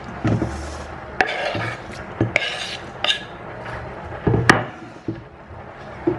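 Objects being handled: a few sharp knocks and clinks between stretches of scraping and rubbing, the loudest knock about four and a half seconds in.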